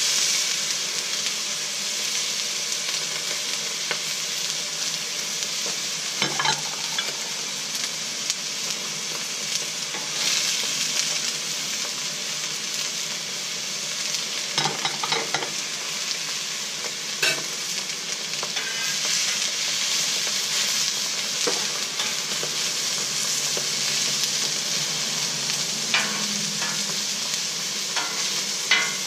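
Chopped vegetables (onions with minced garlic and mini sweet peppers) sizzling on the hot steel top of a Blackstone griddle, a steady frying hiss. A few short, sharp taps break through it now and then.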